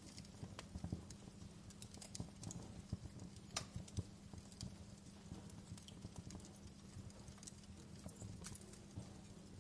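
Wood fire in a fireplace crackling, with irregular pops and snaps over a low steady rumble; one sharper pop about three and a half seconds in.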